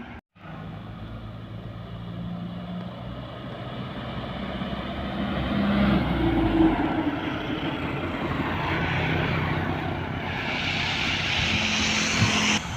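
Diesel truck engine running as the truck approaches and passes, growing louder to a peak about halfway, with a rushing hiss near the end.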